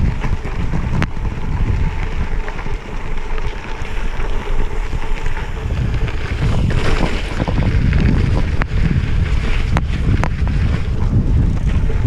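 Wind buffeting the microphone of a camera on a moving gravel bike, a steady low rumble with a few sharp knocks.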